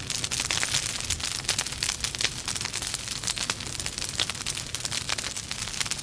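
Logs burning in a fireplace, crackling with a dense, continuous run of sharp snaps over a low rumble of the fire.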